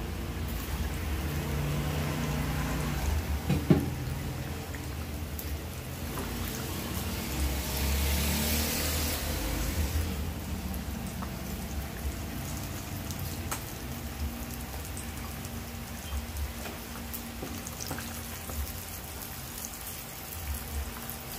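Fish frying in hot oil, a steady crackling sizzle. A sharp clack comes about three and a half seconds in, and the hiss grows louder for a moment around eight to nine seconds in.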